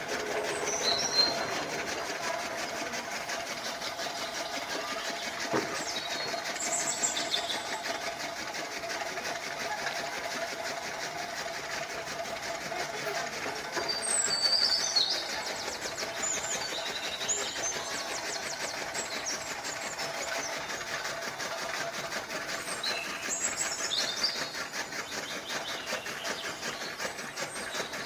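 Small electric motor of a homemade model chaff cutter running steadily with a constant whine. Birds chirp briefly a few times.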